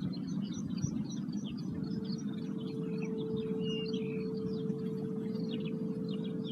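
A singing bowl's single steady tone coming in about two seconds in and held, over many short bird chirps and a low steady rumble.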